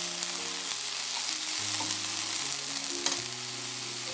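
Bean sprouts sizzling in sesame oil in a hot frying pan as they are stirred with tongs, a steady hiss with a sharp click about three seconds in.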